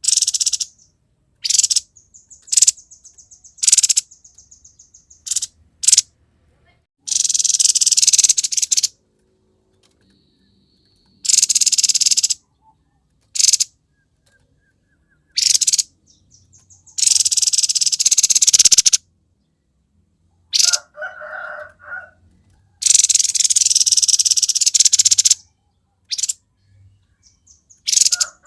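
Grey-headed babbler (tepus kepala abu) singing in loud, rapid, harsh high-pitched chattering bursts a second or two long, with short pauses between, a thin trill about two seconds in, and a lower call about 21 seconds in.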